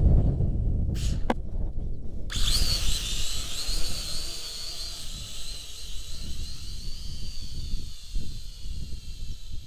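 Syma X5C-1 quadcopter's small electric motors and propellers whining, starting abruptly about two seconds in and holding with a slight wavering in pitch, while wind buffets the microphone. A couple of brief clicks come just before the whine starts.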